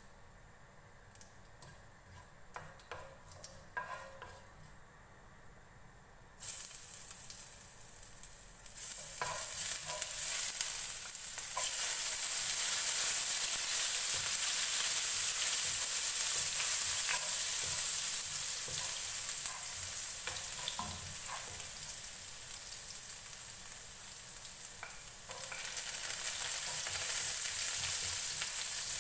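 Cumin seeds ticking faintly in hot oil, then a sizzle that starts suddenly about six seconds in as chopped garlic goes into the nonstick wok. It swells to a steady frying hiss while a wooden spatula stirs and knocks against the pan, and it rises again near the end as green chili is added.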